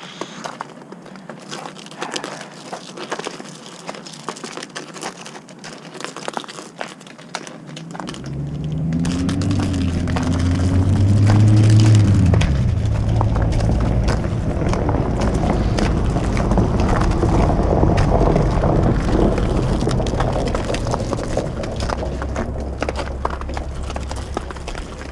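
Footsteps crunching on packed snow, then about eight seconds in a large vehicle comes close and passes with a loud low rumble, its motor pitch rising and falling briefly before settling into a steady rumble.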